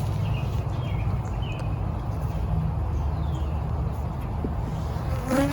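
Honeybees buzzing around an opened hive: a steady low hum from the colony.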